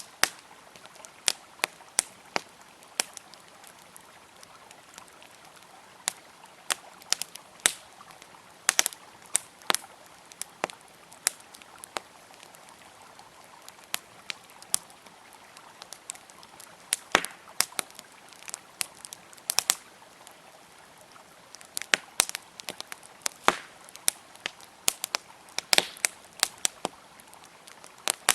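Campfire crackling with many sharp, irregular pops and snaps, over the steady sound of a river flowing.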